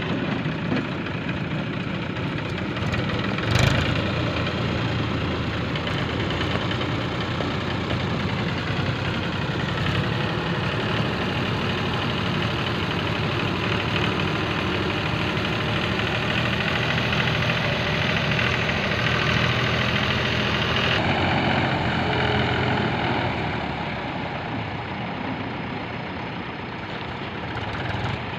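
Heavy diesel machinery engine running steadily, with one sharp knock about three and a half seconds in; the sound changes and gets a little quieter around two-thirds of the way through.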